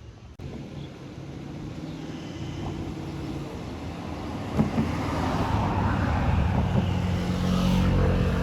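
A motor vehicle's engine running with a steady low hum that grows gradually louder, loudest near the end.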